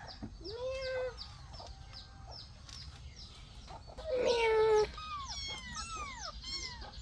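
Chickens: a rooster crowing twice, the second crow about four seconds in and the loudest, over a steady run of high, short, falling peeps from chicks, which near the end give way to quicker arching calls.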